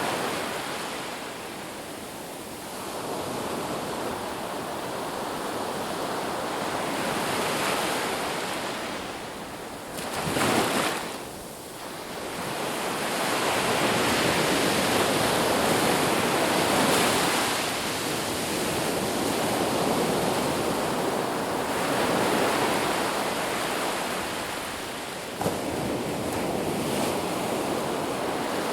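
Sea waves washing on the shore, the surf swelling and easing over several seconds at a time, with one brief sharper surge about a third of the way in.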